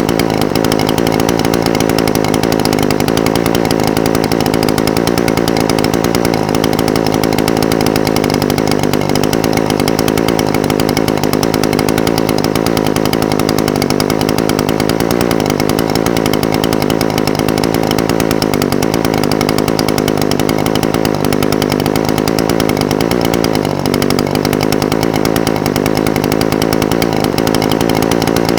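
Echo SRM-420TES brush cutter's two-stroke engine idling steadily, its pitch dipping briefly about 23 seconds in.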